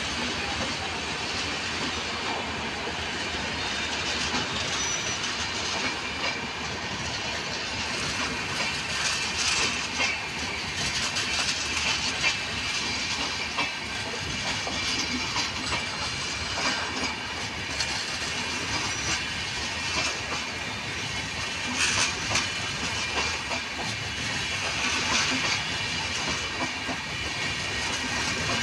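Red-and-grey LHB passenger coaches rolling past on the track: a steady rush of steel wheels on rail, with irregular clicks and clatter as the wheels cross rail joints.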